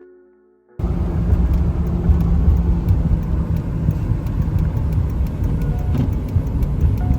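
A motor vehicle driving: a loud, steady low rumble of road and engine noise that starts abruptly about a second in, after a few notes of soft music.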